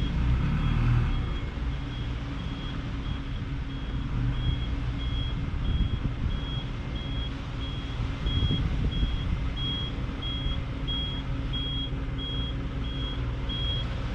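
Truck engine running at low speed while manoeuvring, with a reversing beeper giving a short high beep about twice a second, the sign that the truck is backing up.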